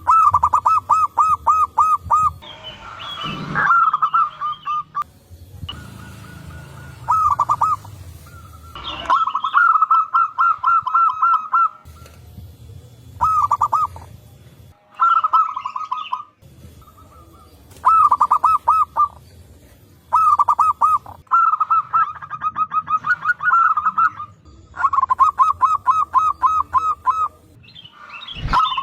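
Zebra doves (perkutut) singing: phrase after phrase of rapid, staccato cooing notes, about four or five a second, with short pauses between, several birds answering and overlapping one another.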